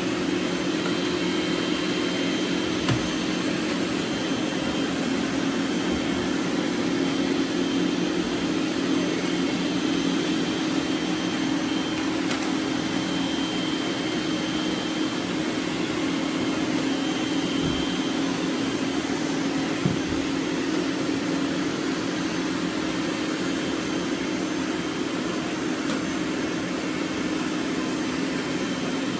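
Several robot vacuums running at once: a steady whir of suction fans and brush motors, with a light knock about three seconds in and another about two-thirds of the way through.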